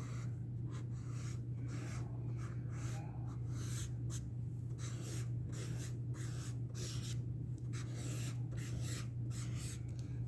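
Acrylic paint pen marker drawing on paper: a run of short, scratchy strokes of the nib, over a steady low hum.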